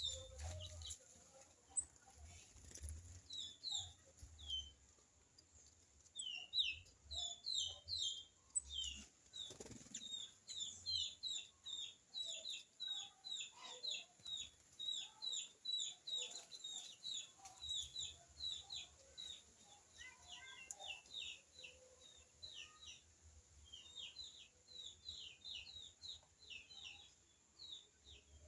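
Many small birds chirping together in a quick, continuous run of short, downward-sliding chirps, with a few lower calls mixed in.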